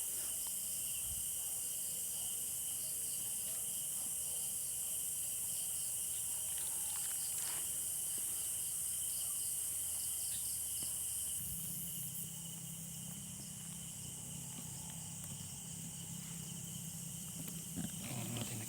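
Night insects chirring continuously, a steady high-pitched drone with one sustained tone under it. A low hum runs beneath and shifts pitch about midway.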